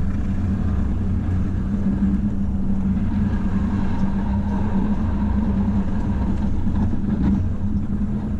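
Plow truck's engine running steadily with a constant low drone.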